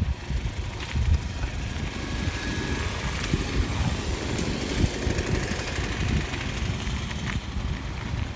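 Wind buffeting the microphone of a camera on a moving bicycle, a fluctuating low rumble with faint road and traffic noise underneath.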